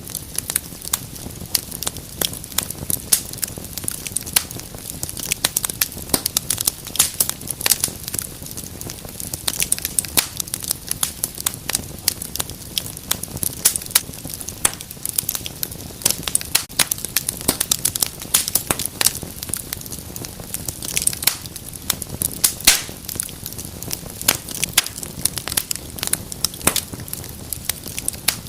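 Wood fire in a fireplace crackling, with many sharp irregular pops and snaps over a low steady hiss.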